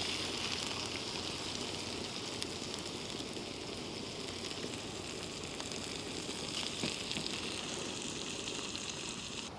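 Sliced steak and vegetables sizzling steadily in a pan over low heat; the sizzle dies down just before the end.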